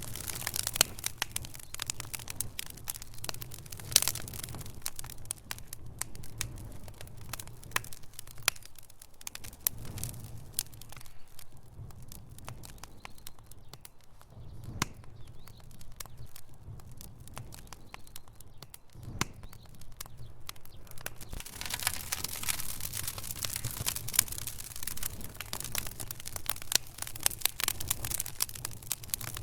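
Log fire in a fireplace crackling, with many sharp pops and snaps of burning wood. The snapping thins out midway and grows busier again about two-thirds of the way in.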